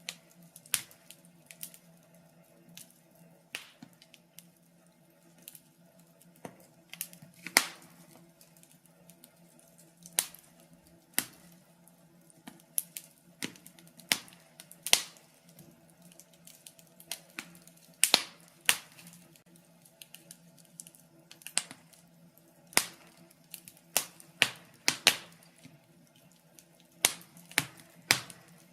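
Wood fire burning in a fireplace, crackling with irregular sharp pops, a few much louder than the rest, over a faint steady low hum.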